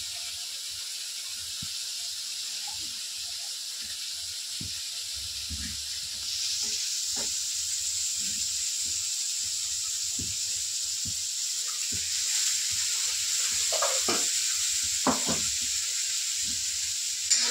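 Ground onion paste frying in hot oil in a kadai with pieces of goat's head: a steady sizzle that gets louder about six seconds in, with a few light clinks and knocks of utensils.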